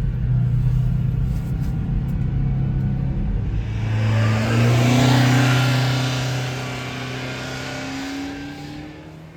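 A 1993 Subaru Sambar kei truck's small 660 cc four-cylinder engine running steadily, then accelerating about four seconds in, rising in pitch as it pulls away and fading out.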